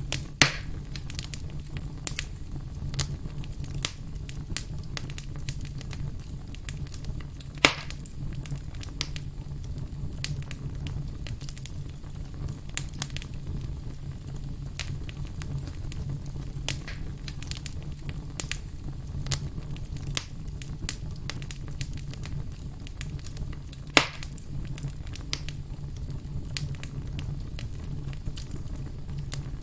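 Burning firewood crackling, with a steady stream of small snaps and three loud pops: about half a second in, near eight seconds, and about 24 seconds in. A steady low rumble runs underneath.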